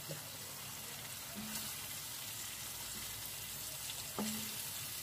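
Thick onion-tomato masala sizzling gently in oil in a metal kadai over a low flame, with a wooden spatula stirring and scraping it now and then. The steady sizzle comes as the oil is separating from the cooked-down masala.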